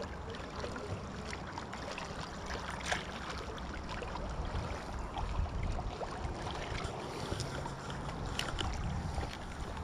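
Wind buffeting the microphone over the steady rush of an outgoing tide, with a few faint ticks, one about three seconds in and another near the end.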